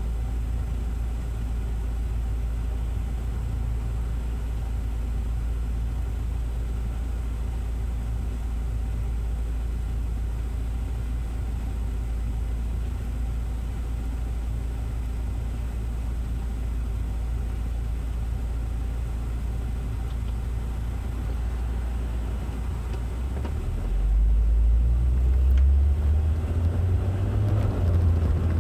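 A vehicle running with a steady low rumble and a faint hum. It grows louder near the end, as if it were picking up speed or load.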